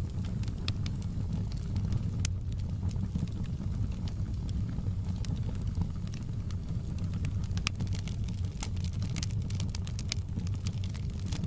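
Wood fire burning in a fireplace: irregular sharp crackles and pops over a steady low rumble of the flames, with the pops coming thicker in the latter part.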